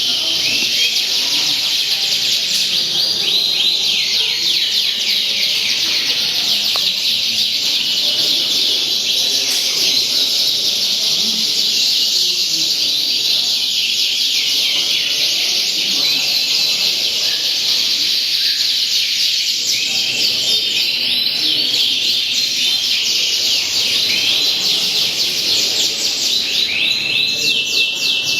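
Many caged songbirds singing at once during a judged contest round: a dense, continuous chorus of chirps, trills and quick whistled glides, with one held whistle near the end.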